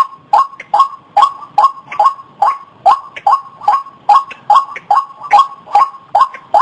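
White-breasted waterhen (ruak-ruak) calling, a rapid, evenly repeated croaking note about two and a half times a second.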